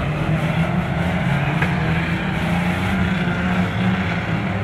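Banger racing car engine running steadily, a low, even engine note with no break.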